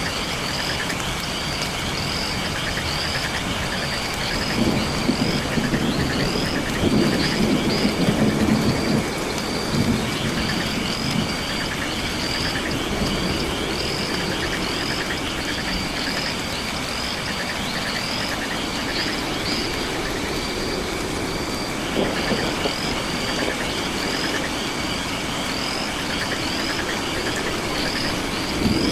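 Night rainforest ambience: a high chirping call repeats about twice a second over a steady insect buzz and a hiss like rain. Low, rumbling swells rise and fall twice.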